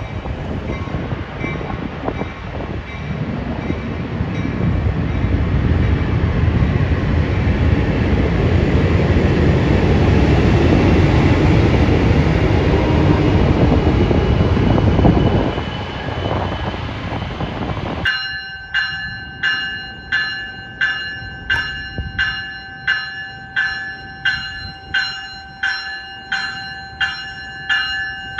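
A train passing close by: the loud rumble and rattle of wheels and cars on the rails, swelling and then easing off. The sound cuts off abruptly to a railroad bell ringing steadily, about one and a half strikes a second.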